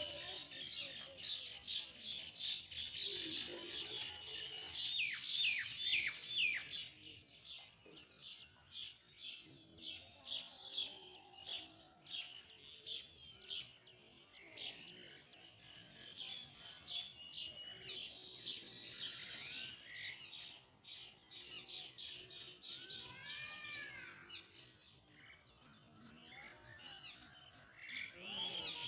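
Baya weavers chattering: fast, dense, high chirping in two loud bouts, one at the start and one about two-thirds through, with scattered chirps and a few sliding whistled notes between.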